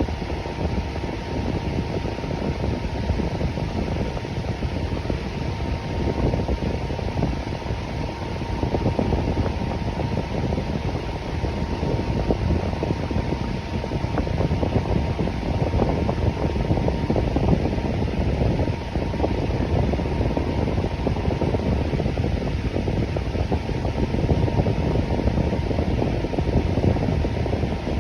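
Electric fan running steadily: an even whooshing air noise, mostly low and mid pitched, with a faint steady hum on top.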